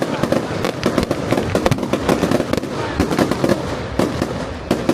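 Fireworks going off in a rapid, irregular string of sharp bangs and crackles over a continuous low rumble.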